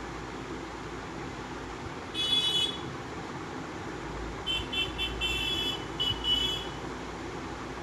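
A high tooting tone sounds once for about half a second, then again about two seconds later as a quick run of short toots, over a steady background hum.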